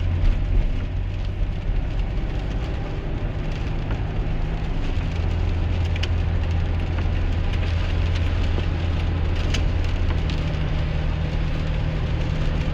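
Rain ticking and pattering on the cab and windshield of a 2001 GMC Sierra pickup, heard from inside over a steady low engine and road drone.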